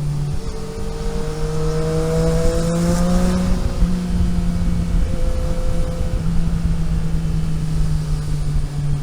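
Vehicle engine heard onboard while driving: its pitch climbs steadily as it accelerates, drops back a little over three seconds in, then holds steady under a constant low rumble.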